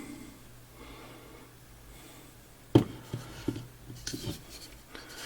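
An old fired-clay pot being handled: one sharp knock a little past the middle, then a few lighter knocks and some rubbing.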